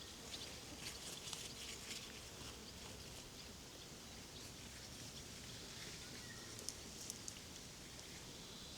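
Faint outdoor farmyard ambience with scattered light clicks and rustles, bunched in the first couple of seconds and again near the end.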